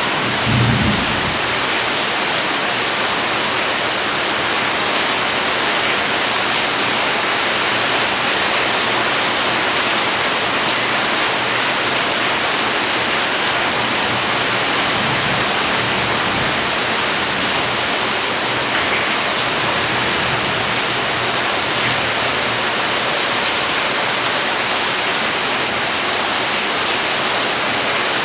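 Heavy rain falling steadily in a dense, even hiss, with a brief low thump about half a second in.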